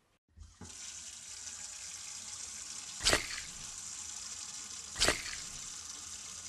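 Washbasin tap running into the sink, starting about half a second in. Two louder splashes about two seconds apart, as water is splashed onto the face.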